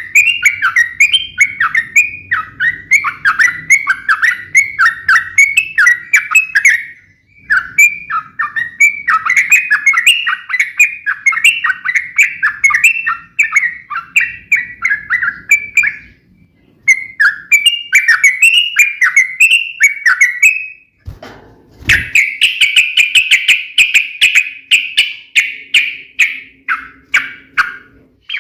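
Yellow-vented bulbul (trucukan) singing its loud, rapid-fire chattering 'ropel' fighting song in long runs of quick notes, broken by short pauses. There is a brief low thump about 21 seconds in.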